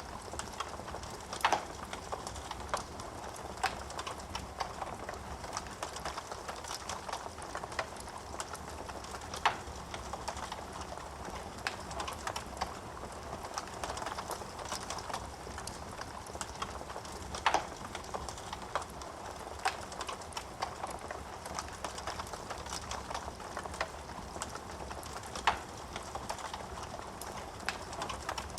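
Wood fire burning in a fireplace: a steady soft hiss of flames with frequent small crackles and an occasional louder pop, about every eight seconds.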